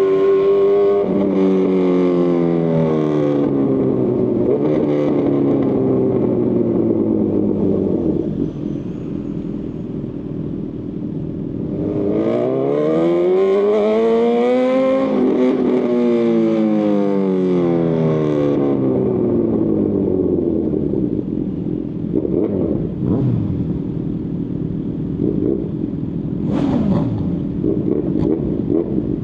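Honda CB1000R's inline-four engine through a Lextek CP1 full aftermarket exhaust: the engine note falls as the bike rolls off the throttle, then climbs steeply under hard acceleration about twelve seconds in, peaks and falls away again. Near the end it runs lower and uneven, with a few short rises in pitch.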